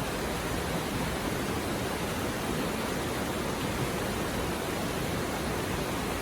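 Mountain river water flowing and babbling over rocks in a steady, even rush.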